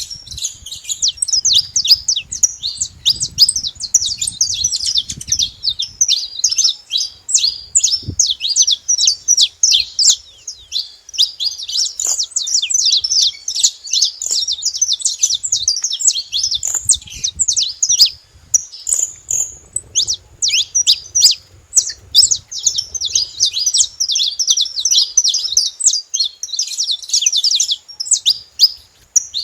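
Saffron finches chirping and singing, a dense, almost continuous stream of rapid high chirps and trills.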